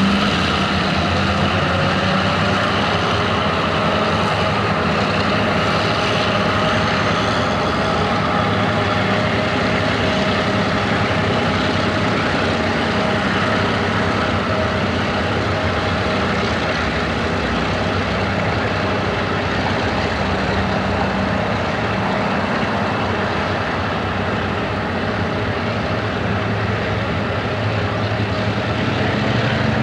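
Diesel railroad locomotive engines running steadily and loudly throughout, a constant mechanical drone with a few steady engine tones.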